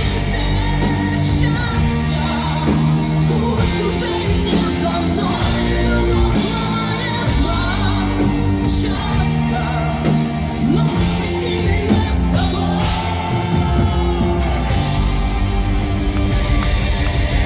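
Live rock band playing the closing part of a song, with voices singing and shouting over it.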